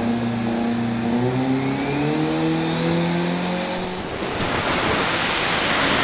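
Diesel drag-racing pickup truck accelerating hard down the strip, its engine note climbing in steps through the gears, with a thin whine rising steadily in pitch. After about four seconds the engine tones give way to a broad rushing noise.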